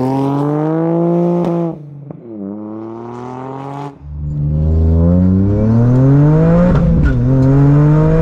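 Remapped Toyota GR Yaris's turbocharged 1.6-litre three-cylinder, with a titanium exhaust and no catalyst or particulate filter, accelerating hard through the gears. The engine note climbs and drops at an upshift about two seconds in, runs fainter as the car pulls away, then gets louder again from about four seconds and climbs to another upshift near seven seconds.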